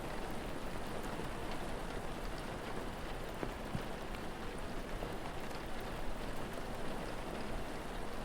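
Steady rain falling, with a few faint crackles from a wood fire.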